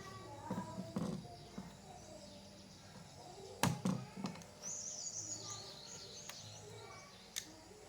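Faint bird chirping in the background, with a few sharp clicks.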